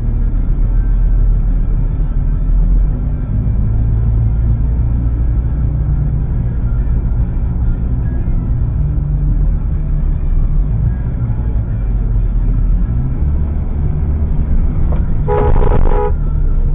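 Steady low rumble of a vehicle driving, with a horn blast of about a second near the end.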